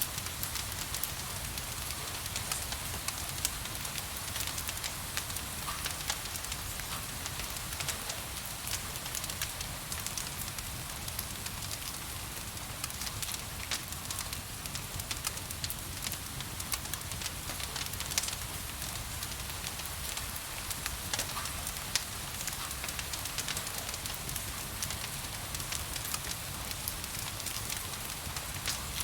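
Wood fire crackling in a fireplace, with sharp little pops scattered irregularly throughout, over a steady hiss of gentle rain and a low rumble.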